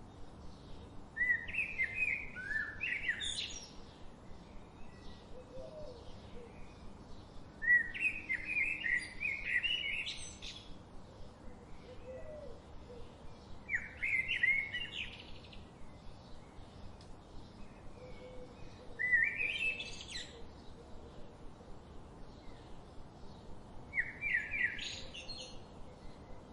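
A songbird singing the same short phrase five times, about every five to six seconds: each phrase is a quick run of notes that ends in a rising sweep. A faint fast chirping from other birds continues underneath.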